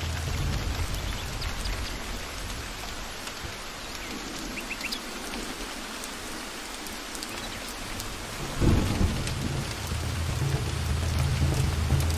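Steady rain falling with thunder: a low rumble fades out, then a louder thunderclap breaks about two thirds of the way through and rolls on.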